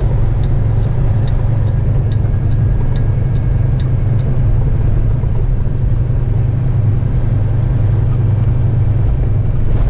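Semi truck's diesel engine and road noise droning steadily, heard from inside the cab while driving. A light, regular ticking, about two or three a second, runs through the first four seconds or so.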